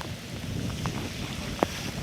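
Hyundai Tucson driving over muddy ground: a steady low rumble with wind buffeting the microphone. Two short sharp knocks, one just under a second in and a louder one near the end.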